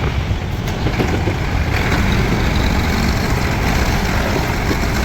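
Heavy vehicle's diesel engine running steadily, with a low, even drone.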